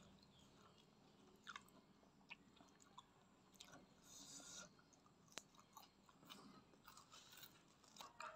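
Faint close-miked chewing of food, with scattered soft clicks now and then.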